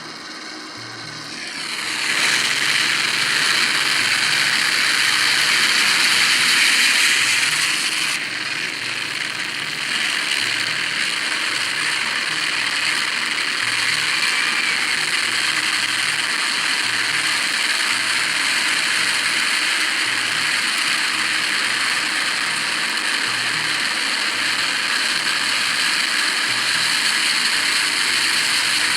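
Helicopter in flight: the steady noise of its engine and rotor, with a choppy beat underneath, builds up over the first two seconds and dips briefly about eight seconds in.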